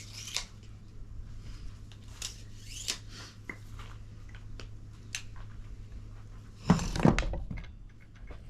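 Hand-work noises while building a sun shade: scattered light clicks, taps and rustles, then a louder cluster of knocks and thuds about seven seconds in, over a steady low hum.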